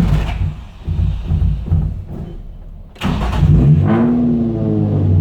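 Nissan G35's VQ35DE V6 being cranked on the starter without starting: one crank that fades out near three seconds in, then a second, louder crank from about three seconds in. It is a crank-but-no-start that new parts have not cured, which the owner guesses may be bad gas.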